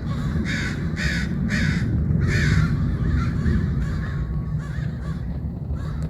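Crows cawing: four loud caws in the first two and a half seconds, then fainter calls, over a steady low rumble.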